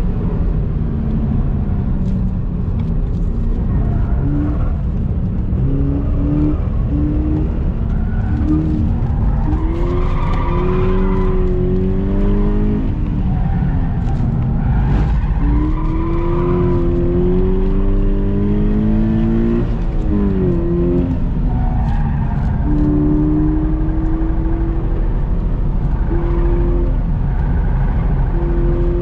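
Subaru BRZ's flat-four boxer engine under hard driving: the pitch climbs in steps through the gears and drops back under braking several times, over steady road and wind rumble.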